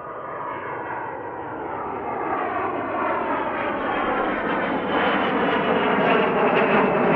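Single-engine Cessna's piston engine and propeller at takeoff power, growing steadily louder with its pitch creeping up as it comes closer.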